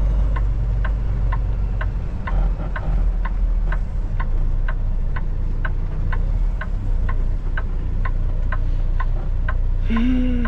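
Turn-signal flasher clicking steadily, about two clicks a second, inside the cab of a Kenworth T680 semi truck, over the low rumble of its diesel engine idling at a stop.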